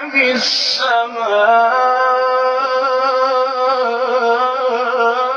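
Male Quran reciter in tajwid style, drawing out one long melodic note with a wavering, ornamented pitch.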